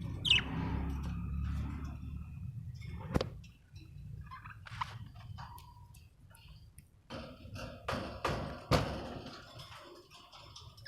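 Budgerigars giving scattered short chirps, with a few sharp knocks: one about three seconds in and two louder ones near eight seconds. A low rumble runs under the first three seconds.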